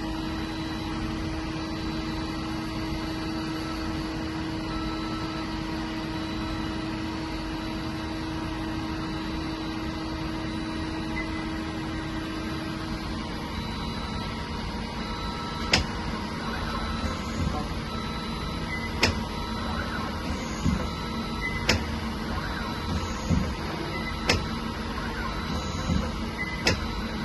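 DMG MORI NLX 2500 SY/700 CNC lathe running with a steady hum and several steady tones. One lower tone stops about halfway through. Sharp clicks then come roughly every second and a half, some with brief high chirps.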